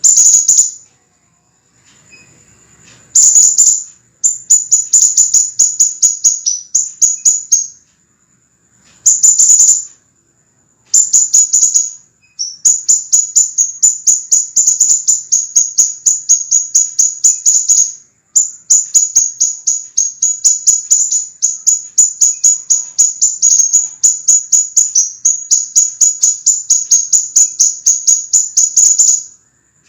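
Crimson sunbird (sepah raja) song: long runs of rapid, sharp, very high-pitched chips, packed close together, broken by brief pauses.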